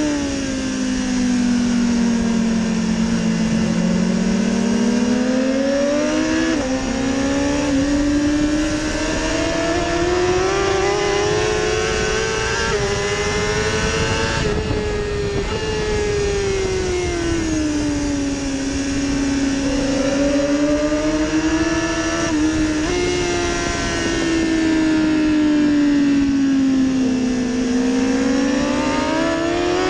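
BMW S1000RR inline-four engine heard from on board at track speed, its pitch rising and falling slowly with the throttle through the bends, with a few quick gear changes, over steady wind rush.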